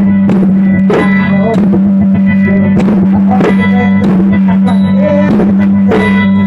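Music for a Khmer mamuat spirit-healing dance: a steady drumbeat with plucked strings over a loud, unbroken drone.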